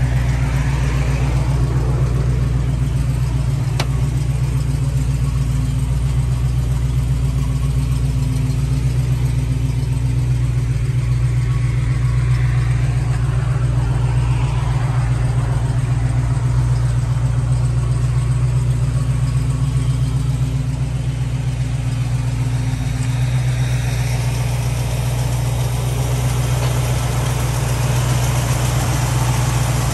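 Ford Mustang Fastback's V8 idling steadily through a new exhaust, a constant low running sound.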